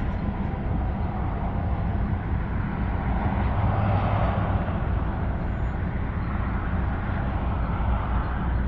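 Highway vehicle noise: a steady low rumble of engine and tyre noise, swelling about four seconds in.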